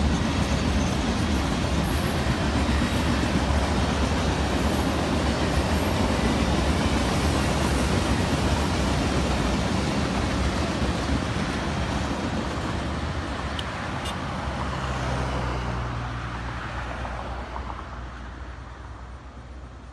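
Freight cars of a long mixed freight train rolling past on the rails, a steady rumble that fades away over the last several seconds as the end of the train moves off.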